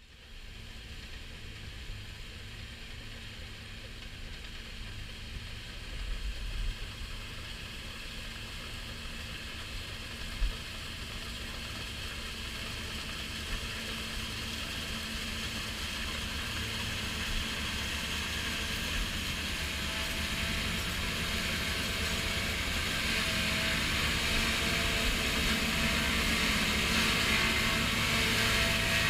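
New Holland TX5090 combine harvester running, a steady mechanical drone that grows gradually louder and brighter, with a few single knocks in the first third.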